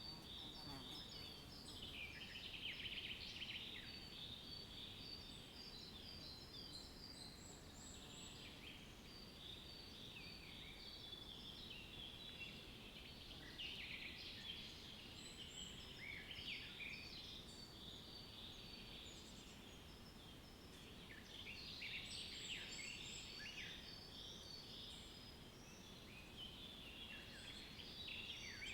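Faint chorus of many small birds chirping and twittering in quick overlapping notes, thickening and thinning in waves, over a low steady background hiss.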